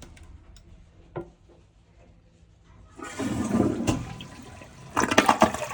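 Glacier Bay dual-flush toilet flushing: a click about a second in, then water rushing into the bowl from about three seconds, with a louder surge near the end.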